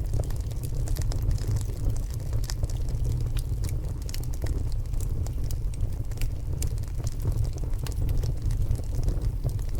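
Log fire burning in a fireplace: a steady low rumble of flames with frequent irregular crackles and pops from the burning wood.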